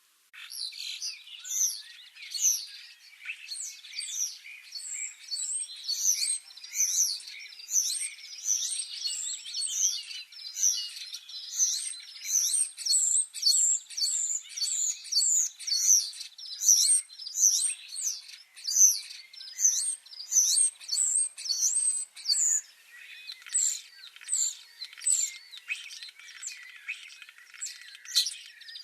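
Many small songbirds chirping and twittering in a dense chorus of quick, overlapping high chirps, starting abruptly out of silence.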